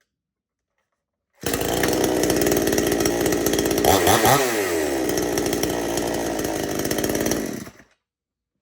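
Two-stroke chainsaw engine running steadily, its note briefly swinging in pitch about halfway through, then cutting off near the end.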